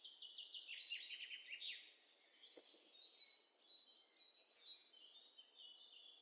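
Faint birdsong: small birds chirping, with a quick run of down-slurred notes in the first two seconds, then scattered down-slurred chirps.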